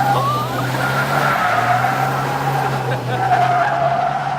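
Tires of a Dodge 2500 turbo-diesel pickup squealing through a long, sustained drift, the squeal wavering in pitch, over the engine's steady drone.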